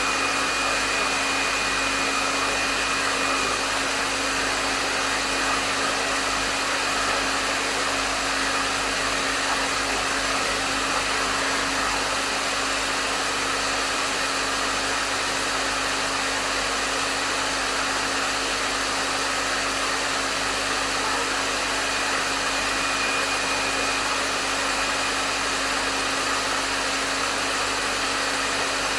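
Hair dryer running steadily: a constant rush of airflow with a low motor hum and a faint high whine.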